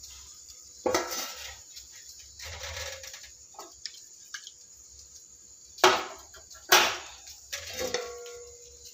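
Cookware clattering: a few sharp knocks and clinks, some of them ringing briefly.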